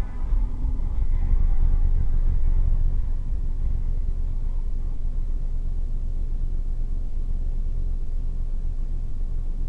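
Steady low rumble of a car driving, road and engine noise heard from inside the cabin through a dashcam microphone.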